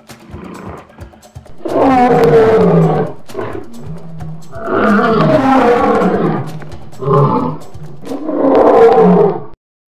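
Lion roaring in a series of long calls with short pauses between them, one of them brief, and cutting off suddenly near the end.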